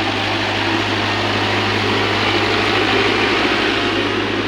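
Truck engine running steadily, with a constant low hum under a broad, even rumble.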